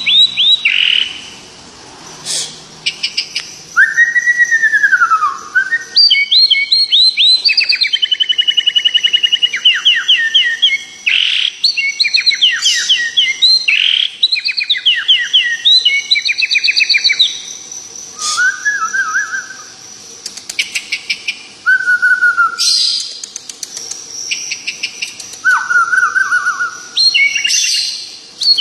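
Songbird singing in long, varied phrases of rapid repeated notes, with a few lower slurred whistles and short pauses between phrases: a bird in full, steady song.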